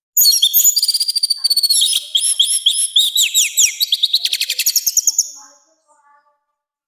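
Orange-headed thrush singing a loud, fast, varied phrase of rapid notes and repeated descending whistled sweeps. It stops a second or so before the end.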